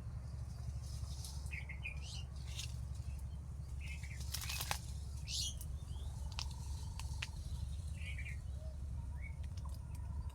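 Birds chirping in short, scattered calls, with a few sharp ticks, over a steady low rumble.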